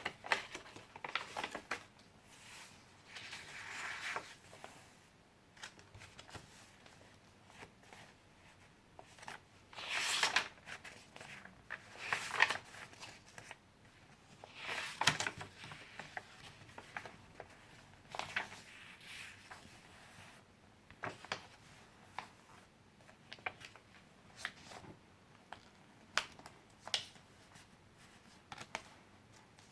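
Pages of handmade junk journals being turned and handled: papers rustling in irregular bursts every few seconds, with small taps and clicks in between.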